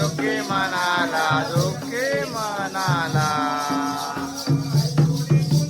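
Jakhadi folk song: a singer holding long, gliding notes over a steady beat of hand-drum strokes and jingling cymbals or rattles; the drumming comes forward near the end as the voice drops out.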